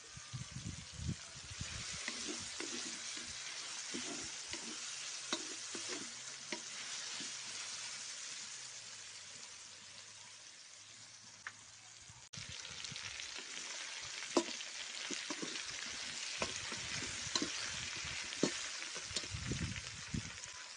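Pork, carrots and onion frying in a metal kazan over a campfire: a steady sizzle with scattered pops and spatters, fading a little before coming back louder about twelve seconds in.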